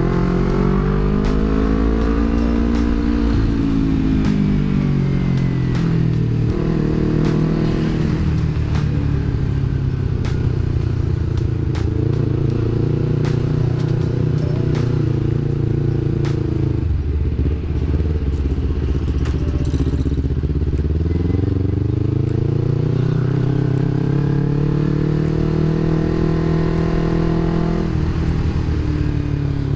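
Yamaha R25 parallel-twin engine running through a Villan MV1 aftermarket exhaust, revving up and down through the gears. Its pitch climbs and falls several times, with a sharp drop about halfway through, and the note is a mellow bass.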